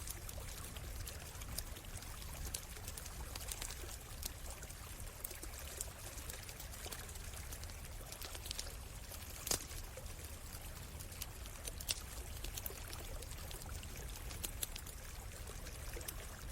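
Stream water flowing and trickling steadily, with a campfire crackling over it in scattered sharp pops, two of them louder about halfway through and a little later.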